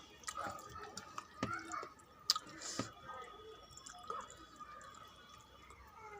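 Close-up eating sounds of rice with saag greens and fried vegetables: irregular wet chewing, squishes and mouth clicks. A faint steady high hum sits underneath.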